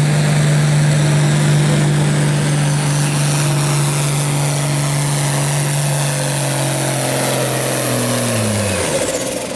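Modified farm tractor engine running hard at a steady high pitch while pulling a weight-transfer sled. About eight seconds in, the pitch falls and the engine note drops away as the tractor is stopped short by the sled.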